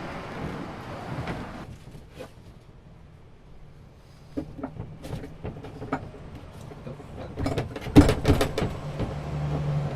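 Scattered knocks and clicks, with a cluster of loud thumps about eight seconds in, then a steady low hum.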